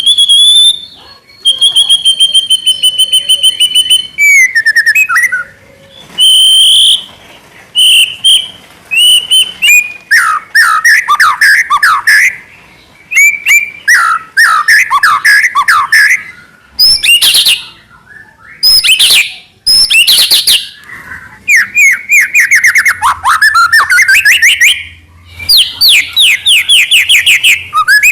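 White-rumped shama singing a loud, varied song of held whistles, rapid repeated trills and sweeping slurred notes, phrase after phrase with short pauses.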